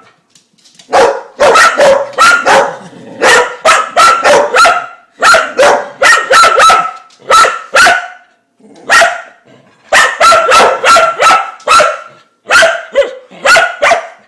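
Dog barking in play at a spinning dishwasher spray arm, loud, sharp barks in quick runs of three to six with short pauses between.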